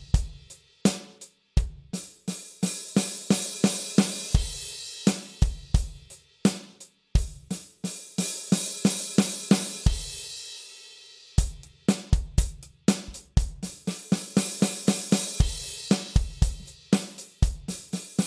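Acoustic drum kit played solo: a simple rock groove on hi-hat, bass drum and snare with cymbal wash. The groove breaks off for about a second near the middle, then starts again.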